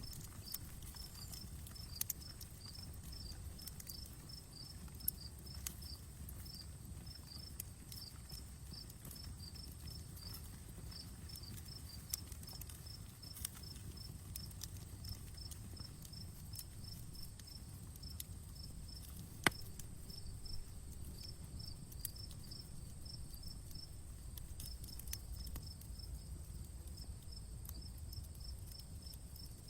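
Campfire crackling: scattered sharp pops and snaps over a low steady rumble, the loudest pop a little after the middle. An insect chirps in an even, rapid rhythm throughout, over a faint steady high hum.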